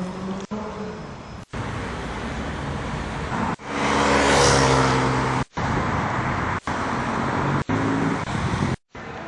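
Street traffic: car engines running, with one vehicle passing close and loud between about four and five and a half seconds in. The sound breaks off abruptly several times where short clips are joined.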